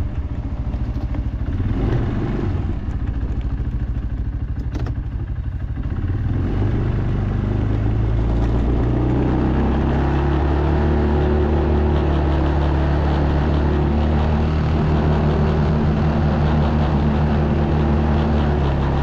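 CFMoto CForce ATV engine running under way. It is uneven at first, then holds a steady pitch from about seven seconds in.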